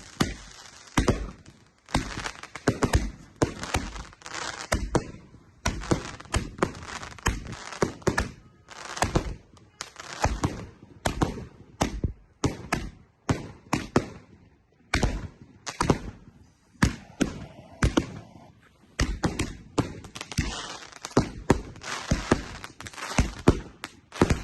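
Fireworks going off in a rapid, irregular run of sharp bangs and cracks, several a second, with a few brief lulls.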